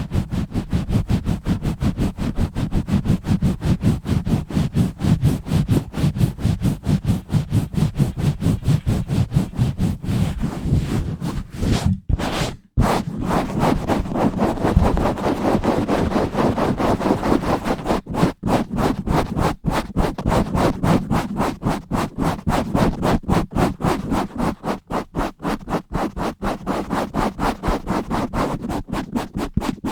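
Fast, rough scratching directly on a bare microphone with no foam cover, in rapid strokes at roughly four or five a second. There is a short break about twelve seconds in, and the strokes then sound brighter and less boomy.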